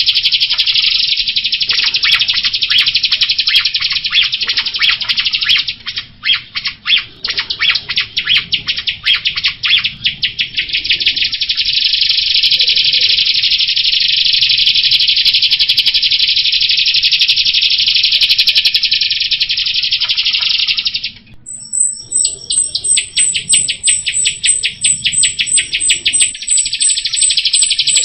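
Jalak rio songbird singing a continuous, loud, high-pitched chattering song with stretches of fast trills. It breaks off briefly about three quarters of the way through, then resumes with a high note repeated several times a second.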